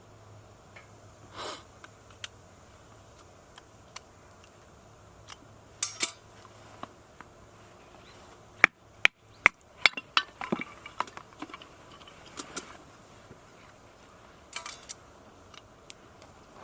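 Clinks and knocks of metal camp gear being handled, as scattered sharp clicks with a dense run of them about halfway through, some ringing briefly.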